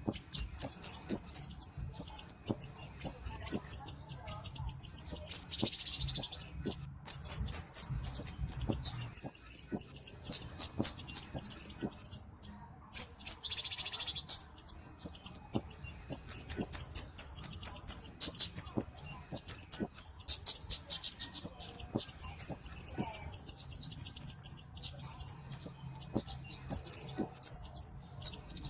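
Flowerpecker (cabe-cabean) calling: very high, thin ticking notes run together into fast trills, repeated in bursts with short pauses. There are two brief hissy notes, about five and thirteen seconds in.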